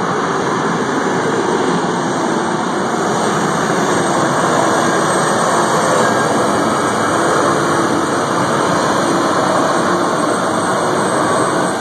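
Engine of a competition pulling vehicle running loud and steady during a pull, with no clear rise or fall in pitch.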